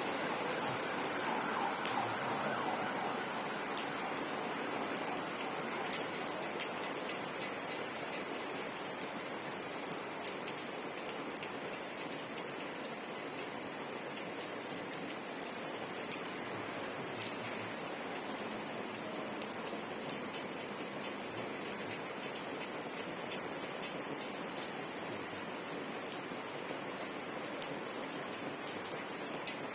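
Steady rain falling, a dense hiss with scattered drips striking a surface.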